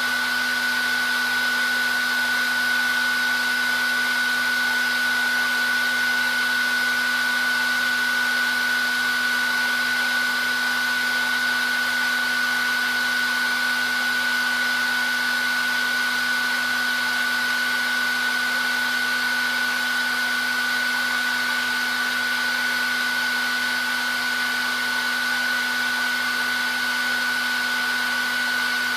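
Hair dryer running steadily at one constant setting: an even rush of blown air with a steady high whine and a low hum.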